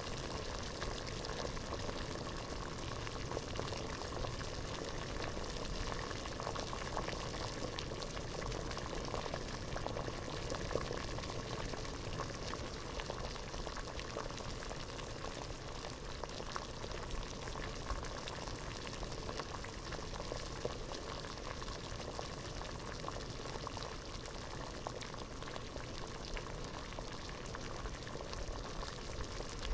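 Water at a rolling boil in a pot, bubbling steadily in a dense, even stream of small pops and gurgles.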